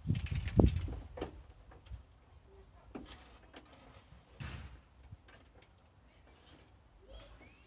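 A dull thump about half a second in, then scattered light clicks and knocks of hand tools and car parts being handled as screws and bolts are refitted around a headlight.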